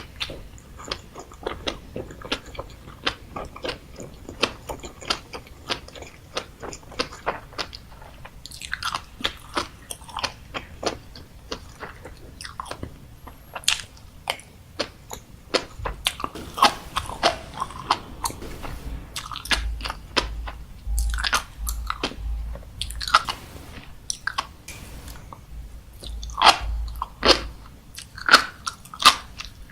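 Close-miked chewing and biting of food, with many sharp popping and crunching clicks, a few louder ones near the end.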